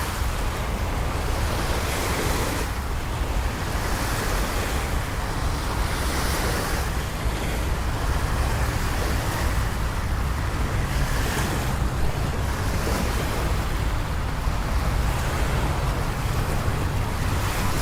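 Steady rain with city background noise: an even hiss over a constant low rumble, swelling and easing slightly every few seconds.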